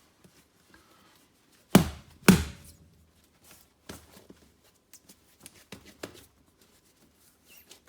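Hands working bread dough on a floured work bench: two heavy thumps about two seconds in, then a few lighter knocks and taps.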